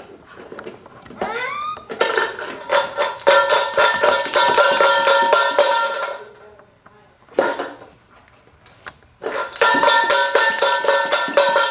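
Clothespins rattling inside a metal can as it is shaken, a fast clatter with a steady metallic ring, in two bouts of about four and three seconds.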